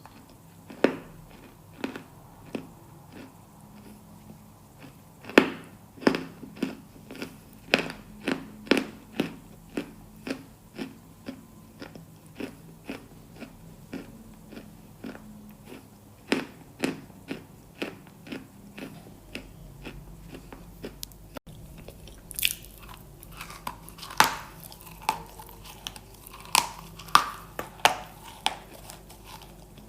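Close-miked biting and chewing of something hard and crunchy, a steady run of sharp crunches about once or twice a second. About two-thirds of the way through the sound changes abruptly to brighter, crisper crunches.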